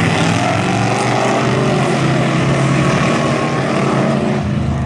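A pack of dirt-track race trucks running at full throttle at the start of a heat race, several engines revving at once.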